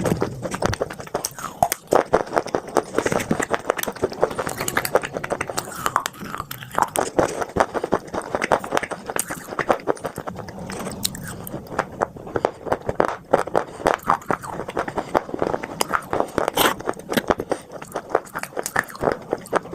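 Dry edible clay (khawa) and chunks of red earth being bitten and chewed close to the microphone: many sharp crunches in quick succession, with no pause.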